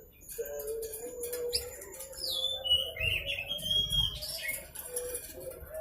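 Young blue-crowned hanging parrot (serindit) singing: a run of high, thin whistles and sliding chirps, several falling in pitch, in the middle of the stretch.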